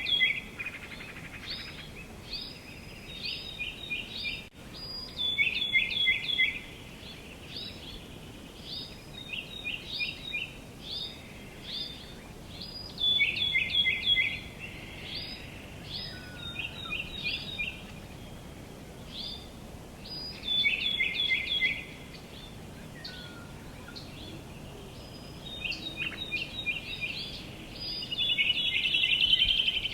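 Songbirds singing outdoors: short phrases of quick, repeated chirping notes come every few seconds, sometimes overlapping, over a steady low background rumble.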